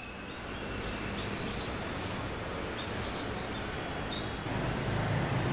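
Small birds chirping in short high calls over a steady outdoor background noise; a low rumble grows louder near the end.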